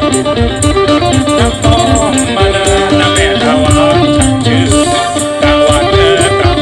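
Live Isan folk music: a plucked phin lute and a khaen bamboo mouth organ over held drone notes, with a steady, regular drum and rattle beat.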